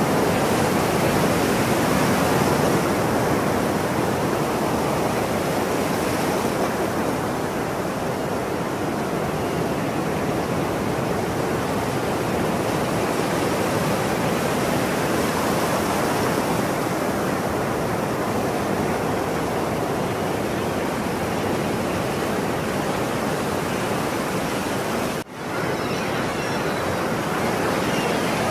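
Ocean surf washing steadily, slowly swelling and easing, with a brief sudden dropout near the end.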